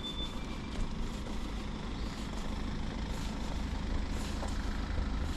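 Steady low rumble of wind and road noise on the microphone of a moving bicycle.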